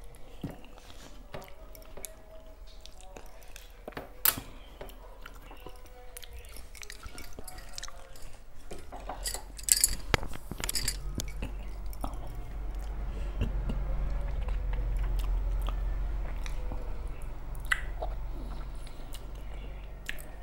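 Close-miked chewing of a mouthful of hand-eaten rice, with wet mouth clicks and lip smacks throughout and a sharp click about four seconds in. A burst of louder smacking and finger-licking comes about ten seconds in. A low rumble swells through the second half.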